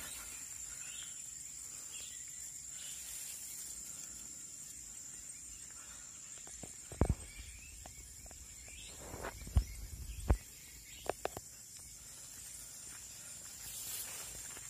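Steady high-pitched insect drone in the countryside, with a few scattered sharp clicks and knocks in the middle.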